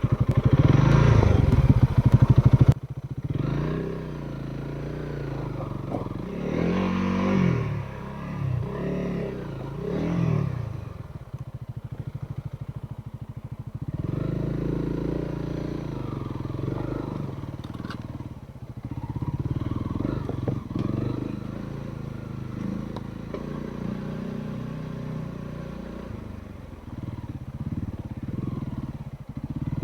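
Trail motorcycle engine on a rough abandoned track, revving up and down again and again as the rider picks a way through. It is loudest in the first three seconds, then suddenly quieter.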